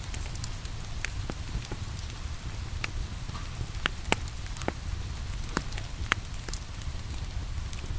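Steady rain hiss mixed with a wood fire burning in a fireplace, its logs giving sharp, irregular crackles and pops every half second or so over a low steady rumble.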